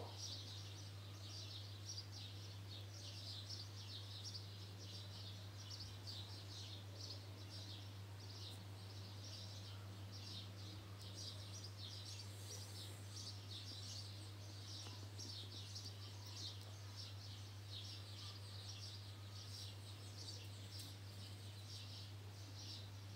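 Many small birds chirping continuously in quick, high-pitched calls over a steady low hum.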